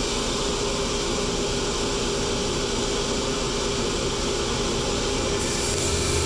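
A power tool cutting the knife's profile out of an annealed steel file, running steadily with an even whirring hiss. A little more hiss comes in near the end.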